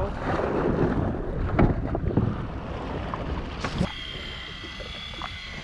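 Wind buffeting the microphone over open water, with water splashing and a few knocks. About four seconds in, after a knock, a steady high whine starts: an electric deep-drop fishing reel winding line in.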